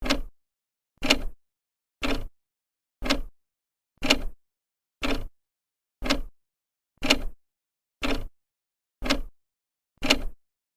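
An old clock's second hand ticking steadily once a second, eleven ticks here. Each tick is a brief cluster of a few clicks.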